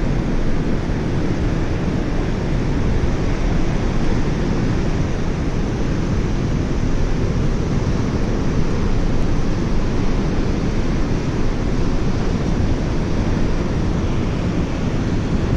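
Steady outdoor rushing noise, heaviest in the low range, with no distinct events.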